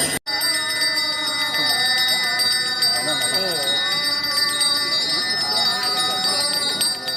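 Small bells ringing rapidly and continuously, with a slow voice or chant in long, wavering tones beneath. The sound cuts out for a split second just after the start.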